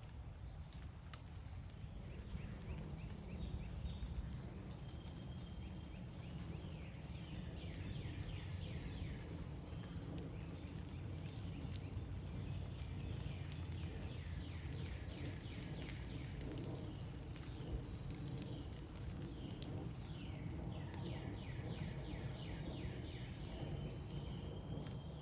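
Backyard songbirds chirping in repeated quick trills, with a few high whistled notes, over a steady low background rumble.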